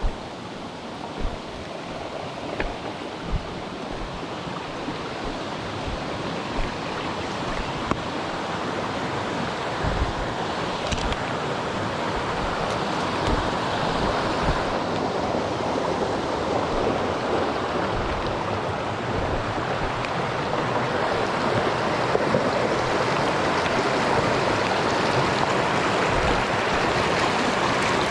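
Mountain stream rushing over rocks, a steady water roar that grows gradually louder, with a few short low thumps in the first ten seconds.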